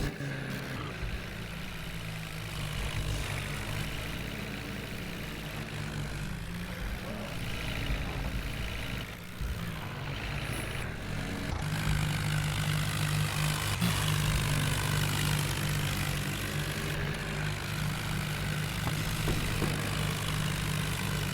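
New Holland tractor's diesel engine running steadily, getting louder about halfway through.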